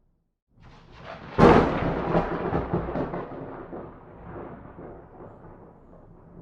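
A thunderclap: a low rumble builds, breaks into a sharp, loud crack about a second and a half in, then rolls on and slowly fades.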